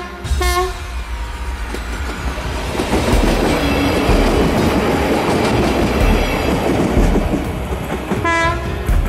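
Stadler GTW 2/6 diesel railcar passing close by. A short horn note sounds at the start and ends about half a second in. Then the engine and wheels on the rails build to a loud, steady rush as the train goes past, with low thumps every second or so.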